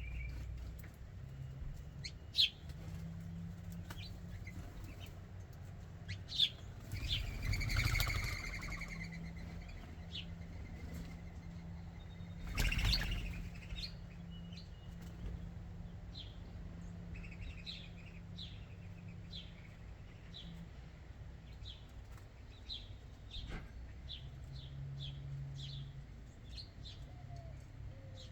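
Small songbirds at a ground feeder chirping in short, repeated high notes that come thicker towards the end, with two louder flurries of wing flapping about a third and halfway through.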